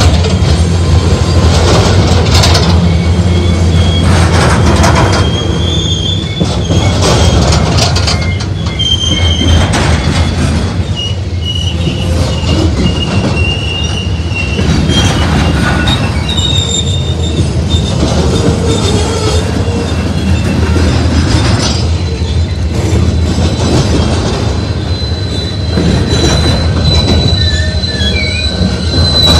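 Loaded coal hopper cars rolling past close by: a steady heavy rumble of steel wheels on rail, with repeated clicks as wheelsets cross a rail joint. Thin high wheel squeal comes and goes and holds steady near the end.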